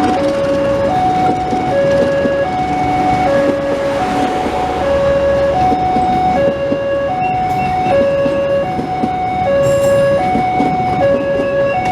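Electronic two-tone warning alarm alternating evenly between a higher and a lower note, each held under a second, over a steady rushing noise.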